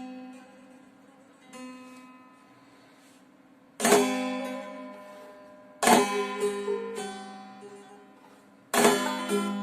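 Three-stringed kopuz played solo, unaccompanied: soft plucked notes fading away at first, then three loud strummed chords a few seconds apart, each ringing out over a steady low open-string drone.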